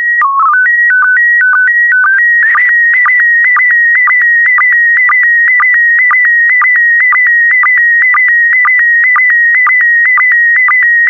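Slow-scan television (SSTV) signal in PD120 mode. It opens with a header of stepped whistling tones and a brief lower code burst. After about two seconds the picture data follows: a steady warbling tone near 2 kHz broken by a short low blip about twice a second, the sync pulse of each pair of scan lines.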